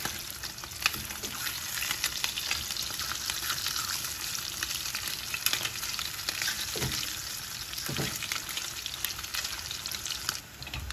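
Slices of Spam sizzling in hot olive oil in a frying pan, with many small pops. The spatula scrapes the pan as the slices are turned, with a couple of knocks about seven and eight seconds in.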